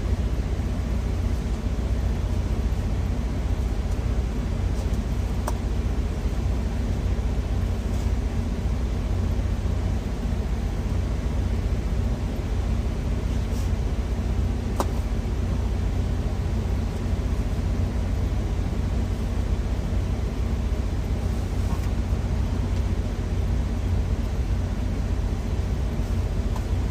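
Steady low rumble of an idling truck heard inside the cab, with a few faint clicks now and then.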